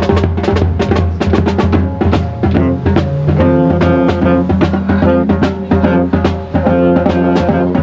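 Marching band playing: the drumline beats a quick, steady rhythm on snare and bass drums over a held low note, and brass chords swell in about two to three seconds in.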